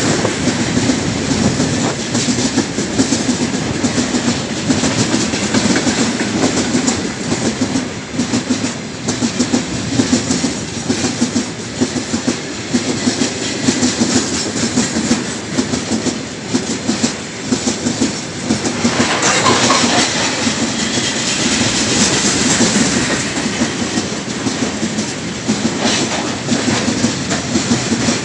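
Loaded railway tank wagons of a heavy freight train rolling past at close range, their wheels clicking over the rail joints in a steady clickety-clack over a continuous rumble. The rolling noise turns brighter and hissier about two-thirds of the way through.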